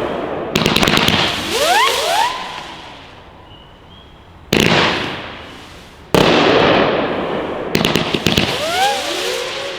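Class B 27-shot fireworks cake firing: sharp shots and breaks about half a second, four and a half and six seconds in, with bursts of rapid crackling and whizzing go-getter glides that rise and fall in pitch between them.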